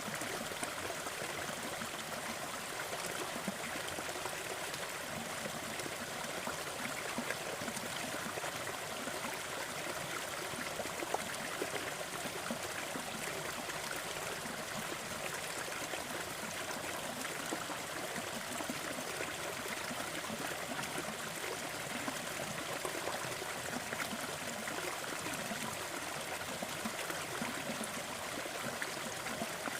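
Small waterfall in a forest stream, water splashing and trickling steadily.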